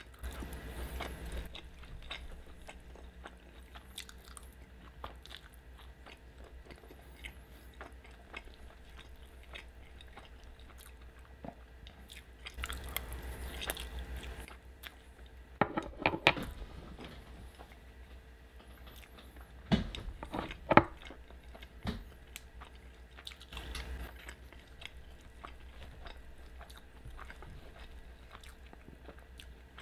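Close-miked chewing and wet mouth sounds of a person eating cheesy carne asada fries. A few sharp clicks and taps stand out around the middle, two of them louder, about a second apart.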